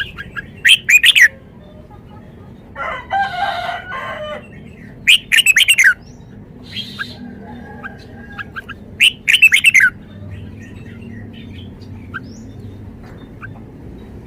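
Red-whiskered bulbul singing: three loud, quick warbled phrases about four seconds apart, with faint chirps in between. A longer, lower call comes about three seconds in.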